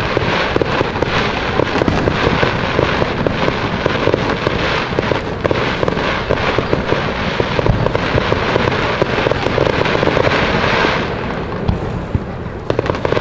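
Aerial fireworks display: a dense, continuous barrage of rapid bangs and crackling, easing a little about eleven seconds in.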